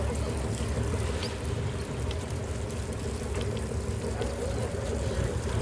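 Steady sound of water running and splashing on a fishing boat, over a low continuous rumble.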